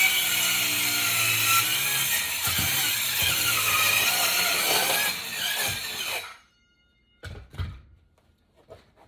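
DeWalt power saw cutting through wood flooring, its motor pitch wavering under load, then stopping abruptly about six seconds in. A few short knocks follow near the end.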